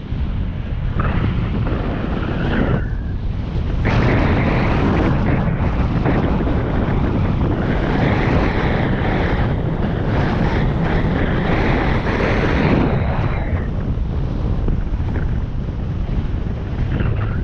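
Wind buffeting the microphone while riding, heavier from about four seconds in until about thirteen seconds, over a steady low rumble.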